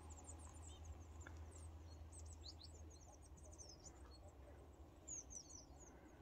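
Small birds chirping faintly, many short high calls scattered throughout, over a faint steady low rumble.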